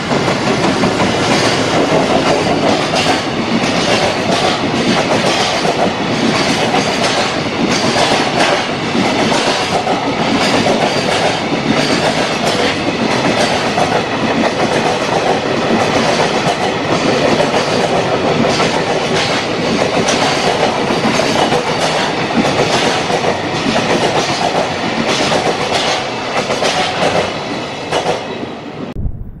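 A long container freight train passes behind an electric locomotive. Its wheels make a steady rumble with a fast, uneven clickety-clack of knocks over the rail joints. The sound cuts off suddenly near the end.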